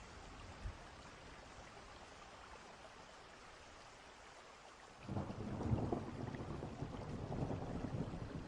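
Steady rain on a distant-storm ambience. About five seconds in, a low rumble of distant thunder swells up suddenly and keeps rolling.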